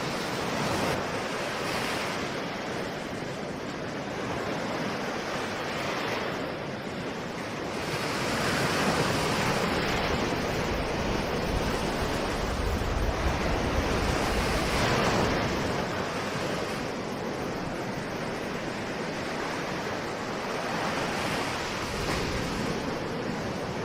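Ocean waves washing ashore in a steady surf, the wash swelling and easing every few seconds, loudest in the middle stretch.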